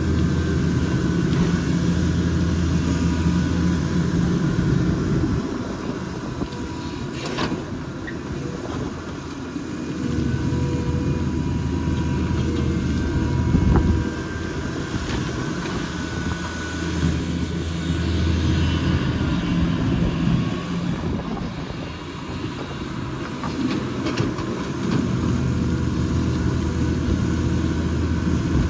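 Hydraulic excavator's diesel engine working under load, swelling and easing every few seconds as the machine digs and swings, over a faint steady high whine. Two sharp knocks stand out, about seven and fourteen seconds in.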